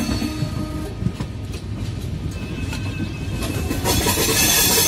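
Passenger train running along the rails, heard from on board: a steady rumble of the wheels with a few clicks over the rail joints. The rushing noise grows louder about four seconds in.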